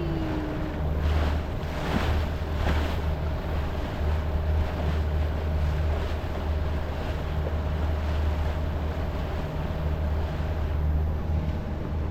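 Motorboat underway: a steady low engine drone with water noise around the hull and wind buffeting the microphone in gusts, strongest about one to three seconds in.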